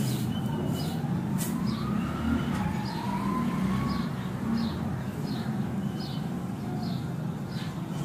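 A bird's short high chirps repeating about every two-thirds of a second over a steady low rumble, with a faint siren-like wail that rises about a second in and holds level for a while before fading.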